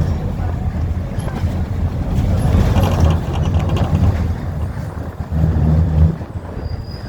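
Wind buffeting the microphone: a heavy, uneven low rumble that swells in gusts, strongest a little past the middle, as a storm blows in.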